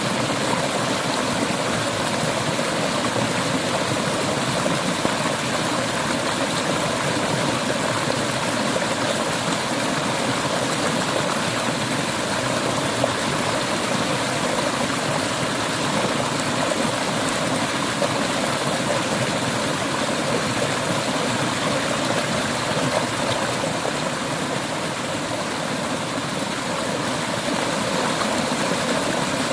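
Clear river water running over stones in a steady rush with a light gurgle.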